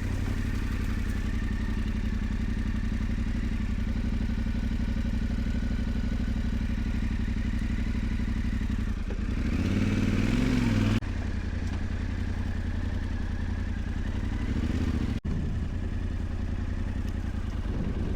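Yamaha Ténéré 700's parallel-twin engine running steadily while riding a dirt track. The engine note climbs briefly about ten seconds in, then drops abruptly back to a steady run, with a momentary break in the sound a few seconds later.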